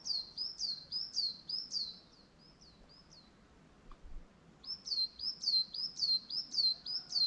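A bird singing two phrases of repeated high, downslurred notes, about three a second. The first phrase fades out after about three seconds, and the second starts again a second and a half later.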